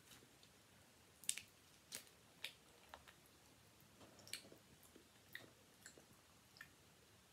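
Near silence broken by about eight faint, irregular mouth clicks and smacks from quiet chewing.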